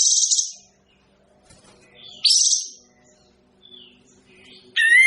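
Kapas tembak bird calling: three short, loud, high chirping phrases with quick upward sweeps, about two and a half seconds apart. A faint steady low hum lies underneath.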